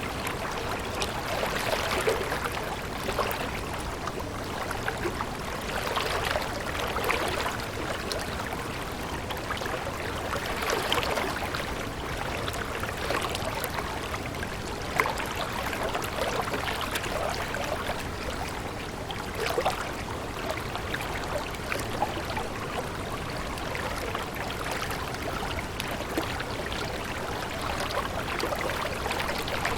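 Water running steadily in a stream, a continuous splashing flow with small irregular splashes and no pauses.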